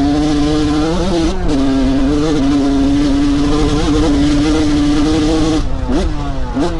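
Dirt bike engine running hard at steady high revs, with a quick rise and drop in pitch about a second in like a gear change. Near the end the revs fall away with two quick throttle blips as the bike slows.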